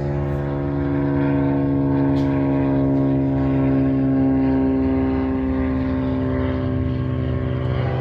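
Diesel freight locomotive engines running under power, a steady pitched drone as the train gets under way.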